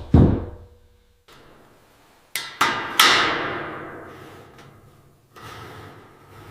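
Hand-tool blows in construction work, most likely a hammer: one heavy dull blow at the start, then three sharper strikes about two and a half to three seconds in, the last ringing on for a couple of seconds.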